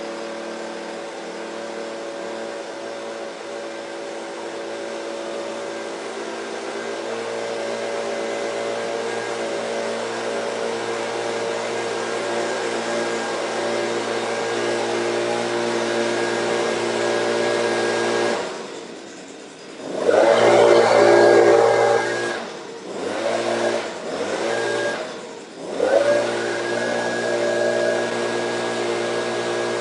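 A gasoline blower's small engine running just after a cold start, still warming up. It runs steadily and slowly grows louder, then falters several times about two-thirds of the way through, dropping and picking back up in uneven surges before settling into a steady run again.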